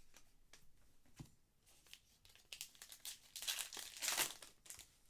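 Trading-card pack wrapper being torn open and crinkled, a run of scattered crackles that grows loudest about three and a half to four seconds in.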